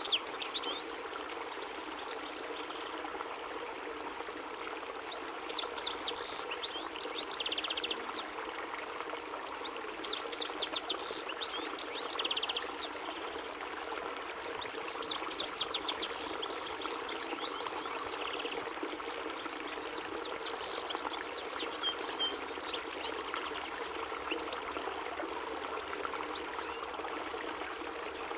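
European goldfinch singing: about five bouts of rapid, high twittering phrases with short pauses between them, over a steady background hiss.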